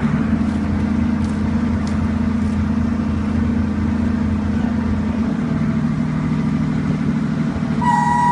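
A motor running steadily, its note shifting slightly about five seconds in, most likely the machine that puts the yacht in the water. A steady high warning tone comes in near the end.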